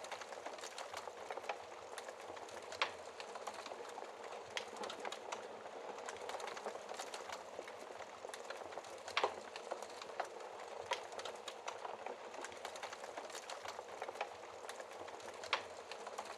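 Fireplace fire crackling: a steady hiss of flames with irregular sharp pops and snaps, a few of them louder than the rest.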